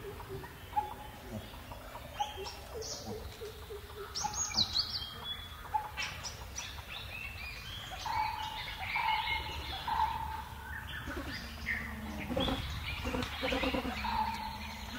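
Several wild birds chirping and calling over one another, with many short high chirps and a few short whistled notes repeated about halfway through.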